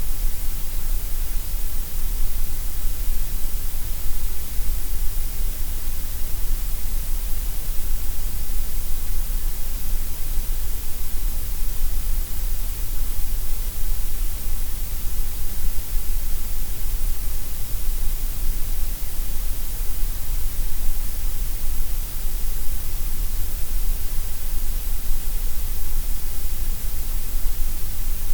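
Steady synthetic gray noise: an even, unbroken hiss, heaviest in the deep bass and the treble with a dip through the middle.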